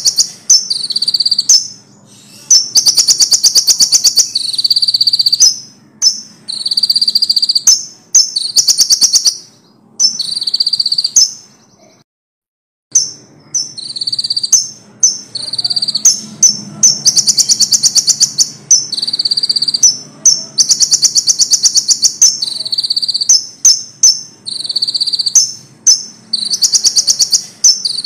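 Konin (kolibri ninja, brown-throated sunbird) singing loud, high, fast-trilled phrases, one after another with short pauses between them. The sound cuts out completely for about a second around the middle.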